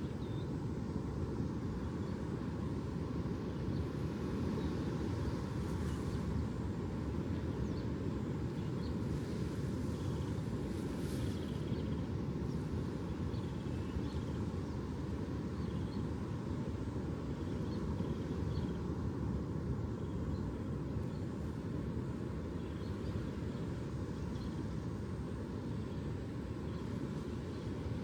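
Steady low rumbling noise with no rise and fall, with faint short high chirps scattered through it.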